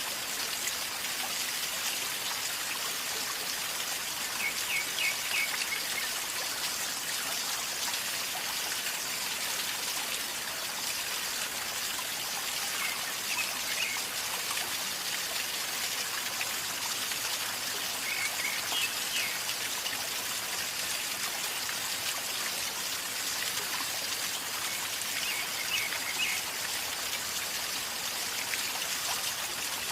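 River water flowing and gurgling steadily. A bird chirps in short high bursts about four times.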